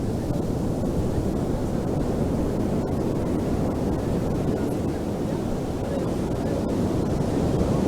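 Ocean surf on a beach: a steady low rush of waves, swelling slightly louder near the end.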